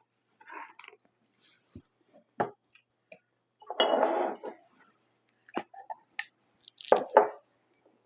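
Close-up eating sounds: chewing pizza with scattered wet mouth clicks and smacks. There is a longer, louder mouth sound about four seconds in and a sharp, loud smack near seven seconds.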